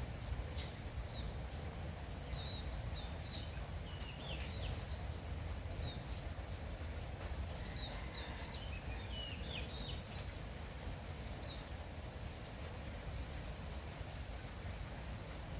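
Light morning rain pattering, with scattered sharp drips, while small birds twitter in short chirping calls through the first eleven seconds or so.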